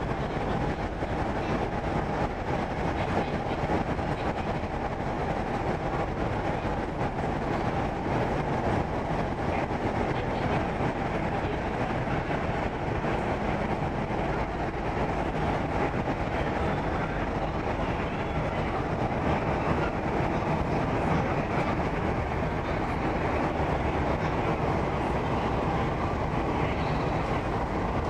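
Korean-built MTR East Rail Line electric train running, heard inside the carriage: a steady rumble of wheels on rail and running gear with no stops or sudden events.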